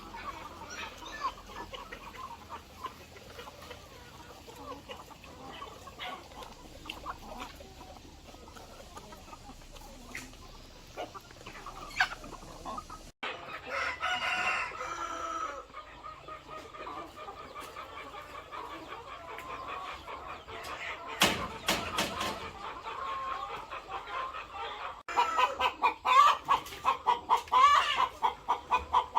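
A flock of chickens clucking, with a rooster crowing. A few sharp knocks come about two-thirds of the way through, and the hens' calls turn into fast, repeated clucking near the end.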